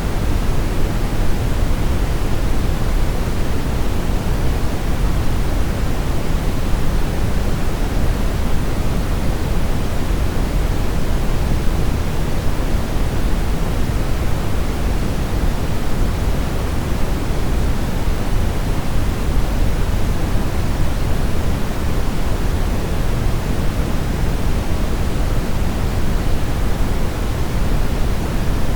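Steady brown noise: a continuous, even hiss weighted toward the low end, with no change or events.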